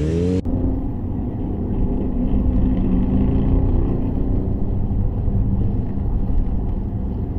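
Motorcycle engine running steadily under way, with a heavy low rumble; a different sound cuts off abruptly about half a second in as the clip changes.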